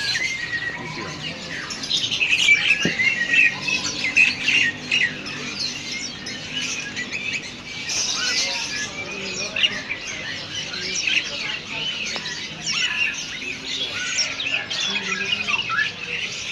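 Many small caged songbirds chirping and trilling at once, a dense, continuous overlapping chatter of high-pitched calls.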